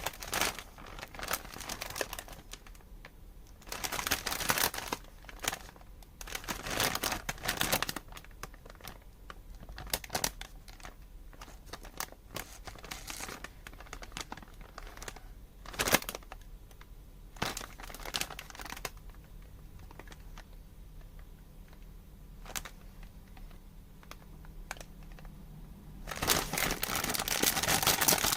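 Plastic wrapper of a Happy Turn rice-cracker packet crinkling in irregular bursts as it is handled and torn open, with longer, louder rustling near the end.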